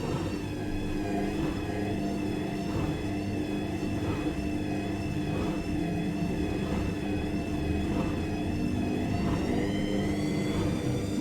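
Washing machine running steadily, its motor giving a high, slightly wavering whine over a low rumble from the drum.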